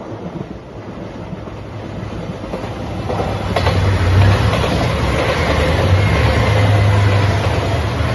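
JR Shikoku 2700 series diesel limited express train passing close by: the diesel engines' drone and the wheels running on the rails. It grows louder over the first four seconds as the train approaches, then holds steady and loud as the cars go past.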